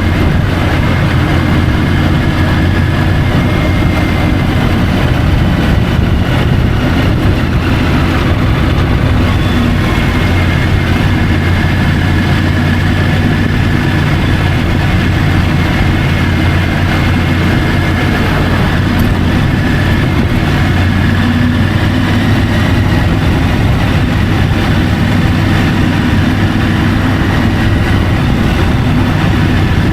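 Triumph Tiger 850 Sport's three-cylinder engine running steadily, heard through the bike-mounted camera, its note holding nearly level with only slight drifts in pitch over a constant rushing noise.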